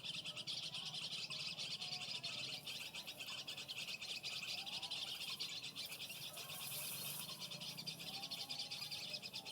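Small birds chirping and calling over a steady, high-pitched chirring.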